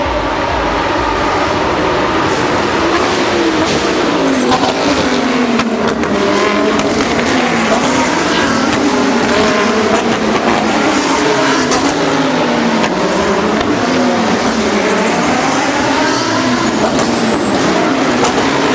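Several Lamborghini Super Trofeo race cars' V10 engines accelerating hard through the gears. Their overlapping pitch climbs and drops sharply again and again as each car shifts up.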